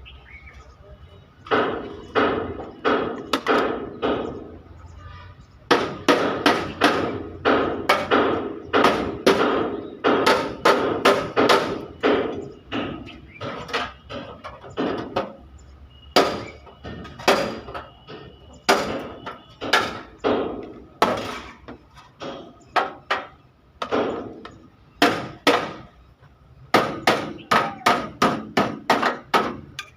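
Hammer beating dented truck sheet metal: runs of quick, sharp strikes, about two to three a second, broken by short pauses, with a faint metallic ring.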